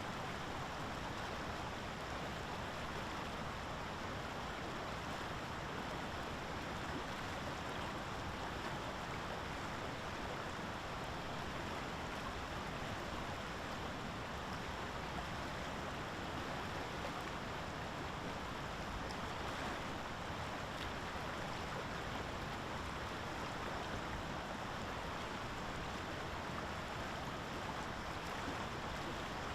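Steady, unbroken rushing of water, even in level throughout, with no single sounds standing out.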